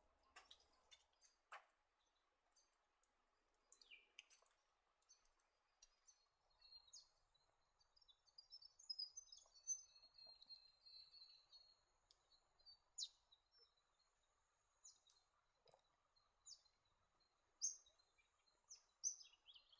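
Faint high chirps and twittering of a small bird, with a run of quick notes about halfway through and a few sharper single notes near the end.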